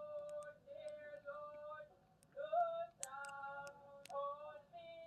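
Faint high-pitched singing, a run of long held notes, with a couple of sharp clicks between them.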